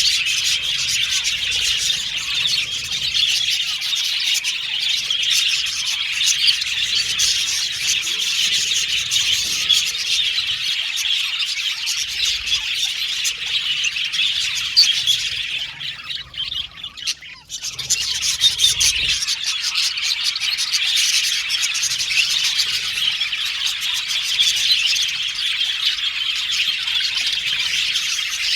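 A group of budgerigars chirping and chattering without pause, a dense stream of short, high calls with occasional squawks. There is a brief lull just past the halfway point.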